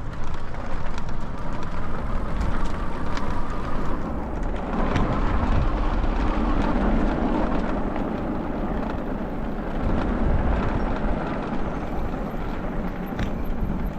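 Steady rushing noise of a folding e-bike being ridden, with wind buffeting the microphone over the rolling tyres and drivetrain, and a few faint clicks.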